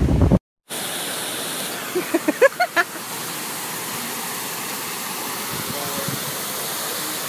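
A steady rushing noise, with a few short voice sounds about two seconds in.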